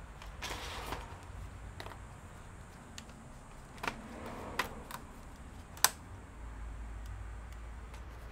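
Scattered sharp plastic clicks and taps from laptop parts being handled and pried during disassembly, about half a dozen at uneven intervals, the loudest a little before the end, with a short scraping rustle about half a second in.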